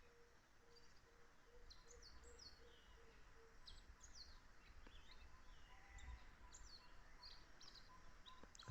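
Faint birdsong: scattered short, high chirps from several birds, with a low note repeating about twice a second that stops a few seconds in.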